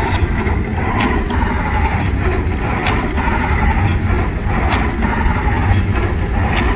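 A steady low mechanical rumble with scattered clicks and rattles and a faint, steady high whine.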